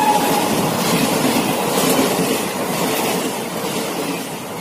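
A passenger train running past at speed: a steady rush of wheel and coach noise that slowly fades near the end. In the first half-second the tail of the locomotive's horn dies away, dropping in pitch.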